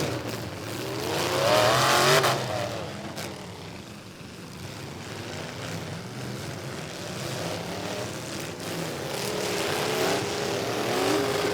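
Demolition derby trucks' engines revving hard, the pitch climbing and falling: one surge about two seconds in, a quieter stretch, then revving building again near the end. A single sharp knock sounds about three seconds in.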